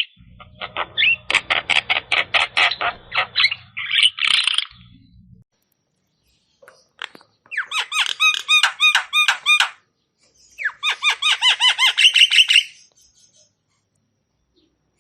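Javan myna (jalak kebo) calling in rapid runs of repeated harsh notes, about five a second. A first run over a low hum stops about four and a half seconds in. Two shorter runs of about two seconds each follow after a pause.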